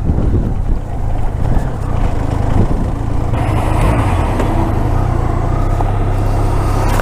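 Motorcycle engine running at road speed, with road and wind noise; the sound grows fuller and brighter about three seconds in.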